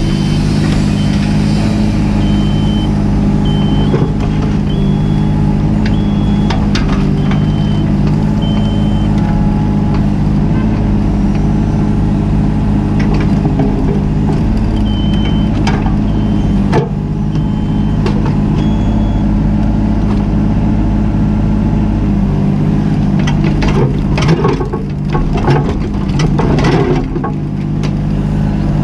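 Mini excavator's diesel engine running steadily, with a short high warning beep repeating about once a second for several seconds, twice over. Sharp knocks here and there, and a run of metallic clanks near the end.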